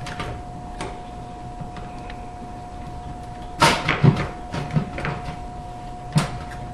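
Knocks and clunks from a dishwasher being handled during repair, its door and plastic and metal parts bumping. A cluster of sharp knocks comes about three and a half to five seconds in, and another single knock comes near the end.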